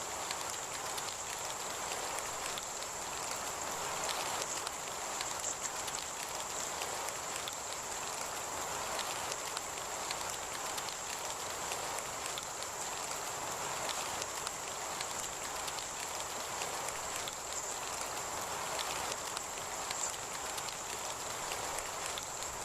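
Heavy rain falling steadily, a dense patter of many small drops, with a steady high-pitched tone running beneath it.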